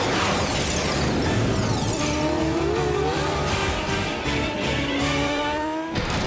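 Cartoon speed sound effect over background music: a sudden whoosh, then a zooming whine that slowly rises in pitch as a mechanical character races off.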